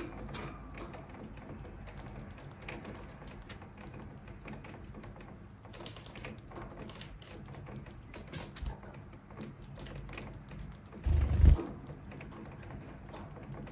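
Scattered light clicks and taps of Bengalese finches moving about their cage, over a steady hiss of rain. A brief low thump a little past eleven seconds in is the loudest sound.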